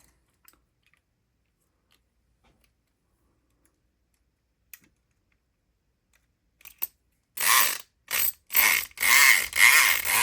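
Southord E500XT electric pick gun running in the keyway of a lock: after a few faint clicks, its motor and snapping pick needle buzz in four short bursts from about seven seconds in, the last one the longest.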